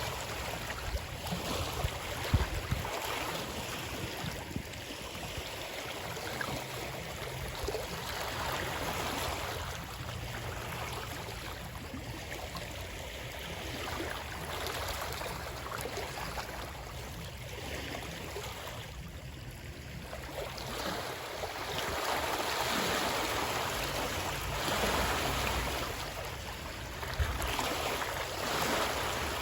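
Running water: a steady rushing wash that swells and eases slowly every several seconds.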